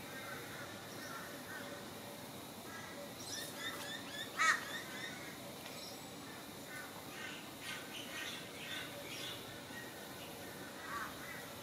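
Several birds calling and chirping in short bursts, with one louder call about four and a half seconds in.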